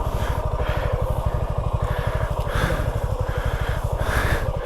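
Motorcycle engine running steadily with an even, fast throb.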